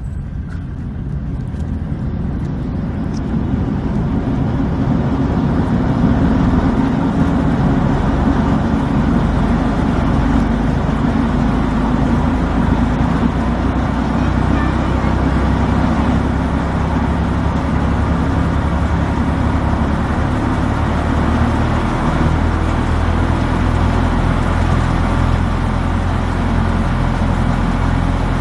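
Tractor-driven threshing machine running steadily under load while threshing millet, a continuous mechanical din with a low engine hum beneath it. It grows louder over the first few seconds, then holds steady.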